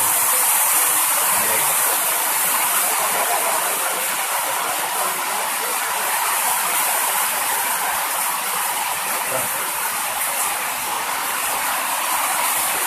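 Heavy rain falling steadily on a corrugated roof: an even, unbroken hiss.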